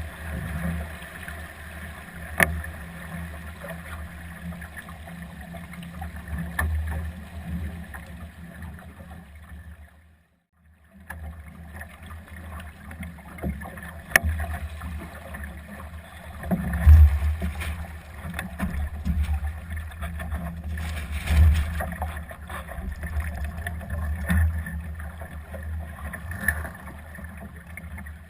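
Wind buffeting the microphone in gusts and water rushing along the hull of a Solo sailing dinghy under way, with a few sharp knocks. The noise briefly drops away about ten seconds in.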